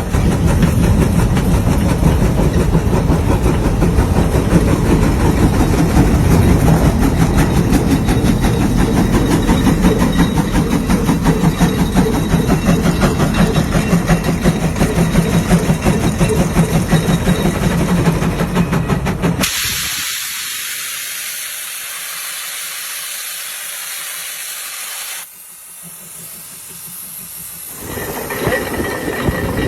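Steam traction engine running, with a loud dense rumble and fast ripple. About two-thirds of the way in this cuts off abruptly into a steady high hiss of escaping steam lasting several seconds. The hiss then drops away, and the running noise comes back near the end.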